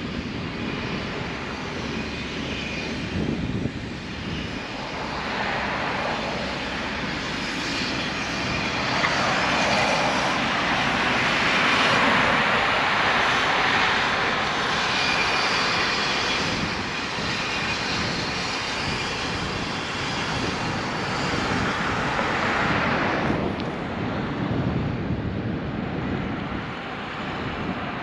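Wind and road rush on a GoPro's microphone while cycling: a steady rushing noise that swells louder through the middle stretch and eases off near the end.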